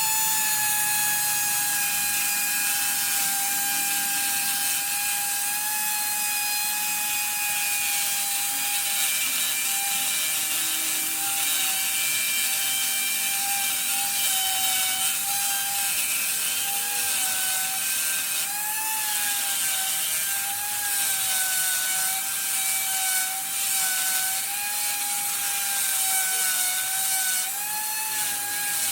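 A workshop machine's electric motor running steadily at speed with a high whine, its pitch wavering and sagging slightly now and then as if under load, over a constant hiss.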